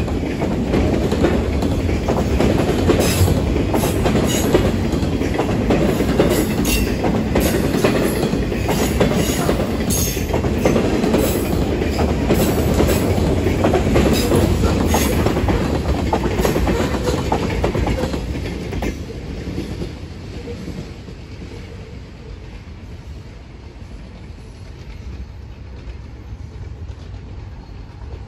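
Providence & Worcester freight train of autorack cars rolling past close by, its wheels clacking over the rail joints with brief high squeals. The noise falls away about two-thirds of the way through as the end of the train passes, leaving a quieter rumble.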